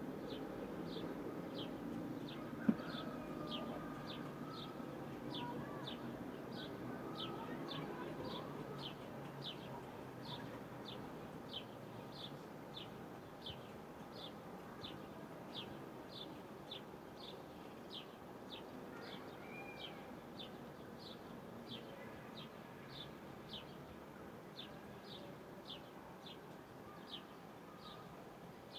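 A bird calling a single short, high chirp over and over at an even pace, about one and a half a second, over a faint low background murmur. Another short call is heard once, about two-thirds of the way in.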